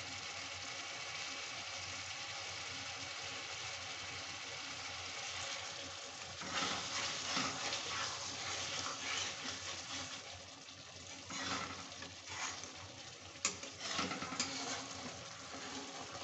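Chicken curry sizzling in a metal kadhai, a steady hiss. From about six seconds in, a flat metal spatula stirs the thick curry and scrapes the pan in uneven strokes.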